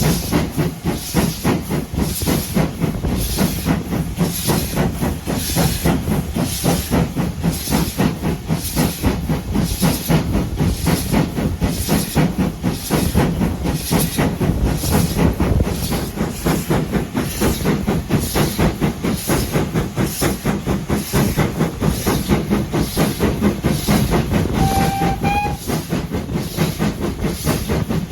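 Steam locomotive working steadily, its exhaust beating in an even rhythm with a hiss of steam. A brief whistle sounds about three seconds before the end.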